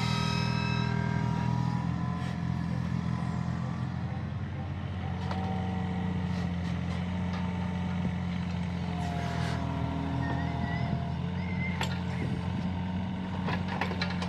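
Small excavator's diesel engine running steadily, with a few sharp knocks in the second half.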